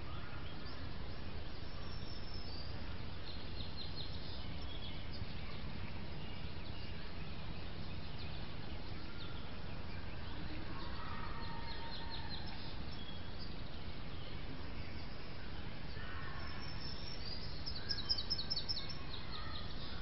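Songbirds calling over a steady low background rumble: a short, high trill of rapid notes comes three times, the last and loudest near the end, with scattered lower chirps in between.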